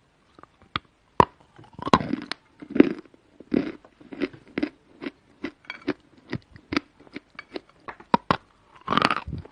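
A person biting and chewing round pieces of edible chalk: a run of short, sharp crunches and clicks, with louder crunching bites about two, three and nine seconds in.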